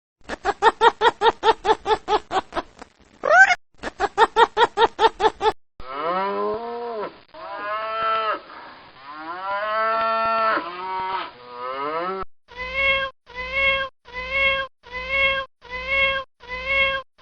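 A sequence of animal calls. First comes a fast run of short, pitched calls, about four a second, with a brief break near the middle. Next come several long, drawn-out calls that slide up and down in pitch, and then a steady series of short calls about one a second.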